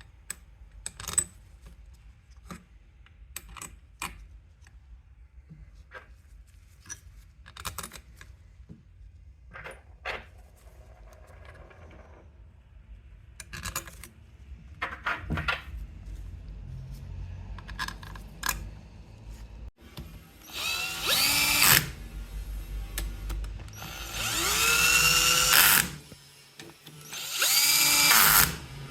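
Metal parts and tools clicking and knocking, then an electric power drill run in three bursts, its motor speeding up and slowing down with the trigger.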